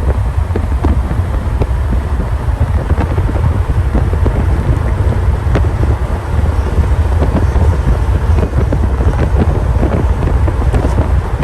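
Cars driving, with heavy wind rumble on the microphone.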